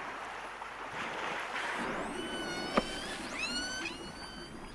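Killer whale calls heard underwater: high, gliding calls with several overtones, one falling about two seconds in and another rising and bending near the end, over a steady watery hiss, with one sharp click in between.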